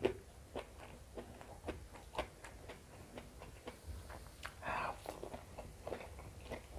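Quiet close-miked eating: scattered soft mouth clicks and chewing by hand-eating, with a brief louder mouth sound a little past halfway.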